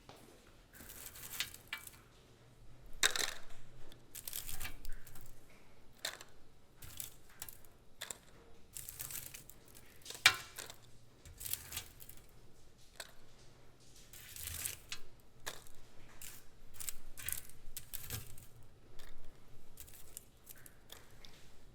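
Crisp baked chicken-and-egg-yolk cat treats being handled: baking paper rustling and crinkling while small hard pieces click and clatter down at an irregular pace, with one sharp click about ten seconds in.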